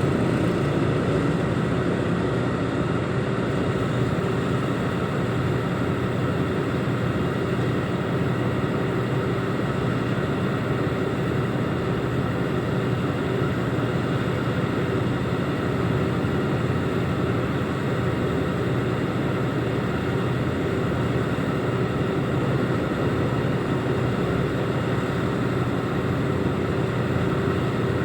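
Reach stacker's diesel engine running at a steady speed, an even drone with no change in pitch or loudness.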